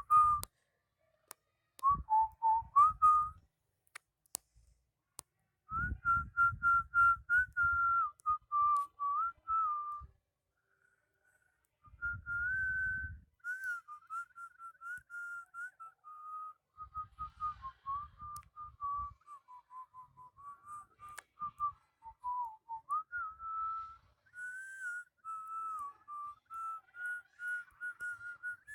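A person whistling a wandering melody in phrases, with short pauses between them.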